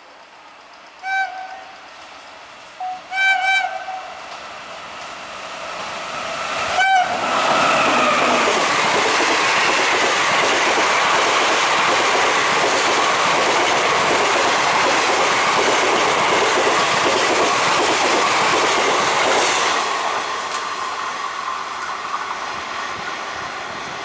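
Indian Railways electric express train sounding short horn blasts as it approaches: one about a second in, two close together around three seconds, and a brief final one just before it reaches the microphone. It then passes at speed with a loud, steady rush of wheels on rail for about twelve seconds, which eases off near the end.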